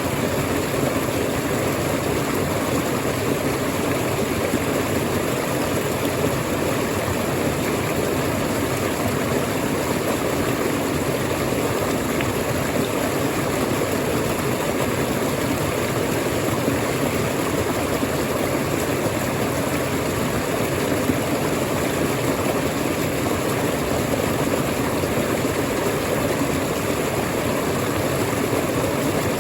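Waterfall: falling water making a steady, even rushing noise with no change in level.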